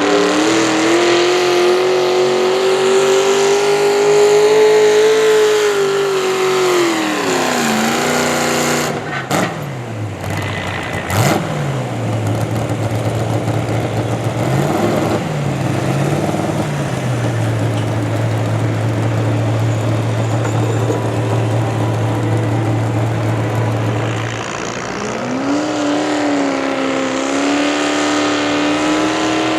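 Pulling tractor's engine running hard at high revs, its pitch climbing and then dropping off about seven seconds in. After a short break it settles to a steady low idle for about twelve seconds, then revs back up near the end.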